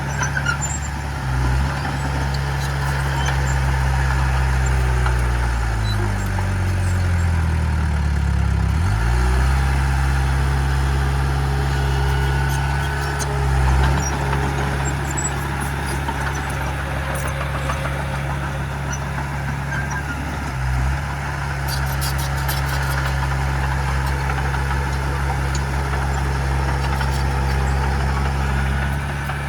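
Heavy diesel engine of earthmoving machinery running steadily, with a falling engine pitch about six to nine seconds in and brief dips in the engine note a few times.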